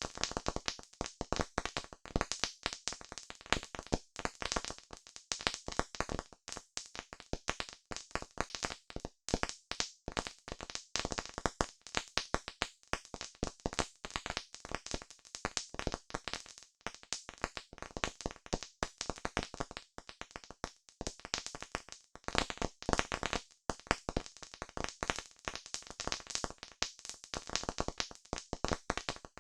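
Campfire crackling: a dense, irregular run of sharp pops and snaps, several a second.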